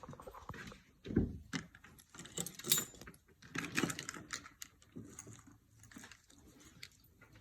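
Small metal pieces jingling, with scattered clicks and knocks of handling; the loudest jingle comes near the middle.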